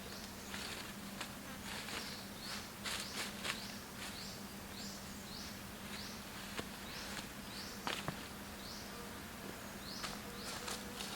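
Rainforest wildlife: a creature repeating short, high, rising chirps over and over, over a steady low drone, with scattered sharp clicks and snaps, the loudest about eight seconds in.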